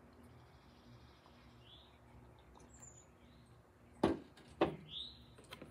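Birds chirping faintly outdoors, a few short chirps and a quick downward whistle. About four seconds in, two sharp knocks half a second apart stand out as the loudest sounds.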